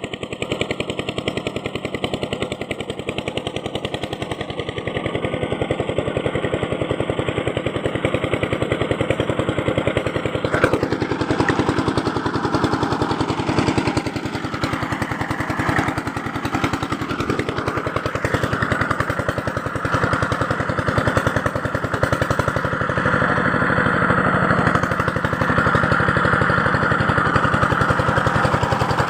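A small power tool running steadily with a fast, dense rattle, its sound changing about a third of the way in as it bears on the work.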